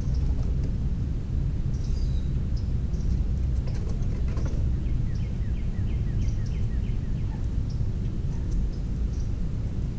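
Wild birds calling: a quick run of short down-slurred notes about five seconds in, with scattered high thin chips throughout, over a steady low rumble.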